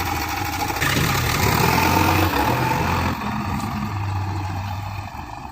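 Heavy diesel engine of a working machine running steadily, a little louder for a couple of seconds, then easing off about three seconds in.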